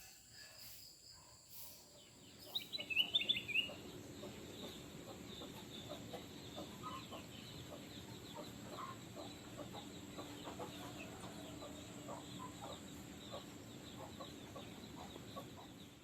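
Birds calling: a quick burst of sharp, high chirps, then many short, low clucking calls running on steadily.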